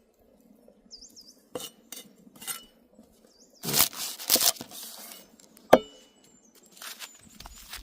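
Cookware and utensils knocking and clinking in a few separate strokes, the loudest cluster about four seconds in and a sharp clink with a brief ring about six seconds in. A bird gives short whistled calls in the background, about a second in and again before the loudest knocks.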